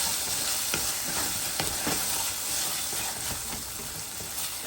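Onion and tomato masala sizzling in oil in a pan while it is stirred, the spatula scraping and knocking against the pan about twice a second over a steady high sizzle.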